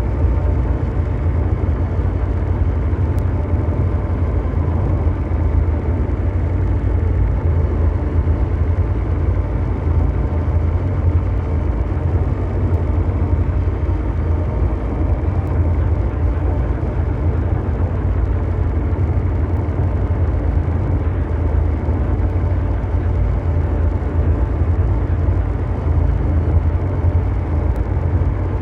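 Ambient mechanical drone: a steady deep rumble of brown noise with a few faint steady hum tones above it, unchanging and without breaks.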